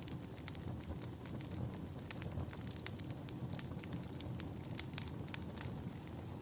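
Wood fire crackling: a low steady rumble with scattered sharp pops and crackles.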